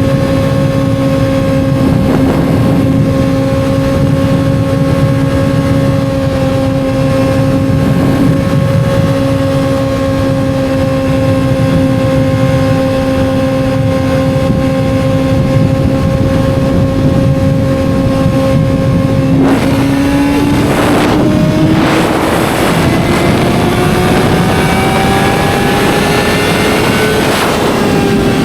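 2007 Yamaha R6's inline-four engine holding a steady high engine speed, then revving up in one long smooth rise from about twenty seconds in, easing off again near the end.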